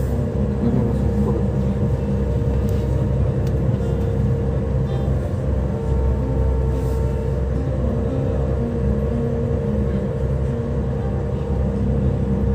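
Busy city waterfront ambience: a steady low rumble of engines and traffic with a constant hum, and faint voices of passers-by.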